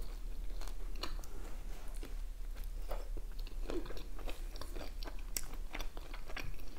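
A person chewing a mouthful of homemade chicken shawarma in lavash, close to the microphone: a quick, irregular run of small mouth clicks and smacks.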